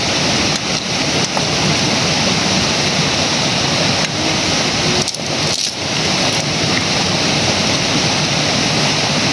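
River water rushing over rocks, a steady loud rush with a brief dip about five seconds in.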